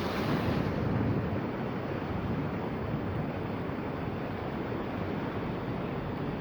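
Heavy rain falling, a steady rushing noise.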